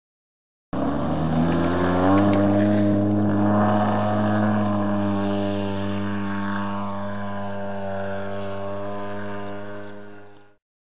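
Radio-controlled model aircraft engine running, its pitch rising over the first second or two and then holding steady with a slight sag. It starts abruptly and cuts off suddenly near the end.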